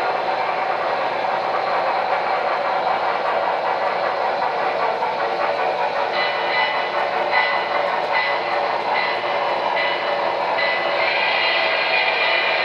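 HO scale model train running on the layout, a steady rolling rumble. From about halfway through, a short ringing tone repeats a little more than once a second.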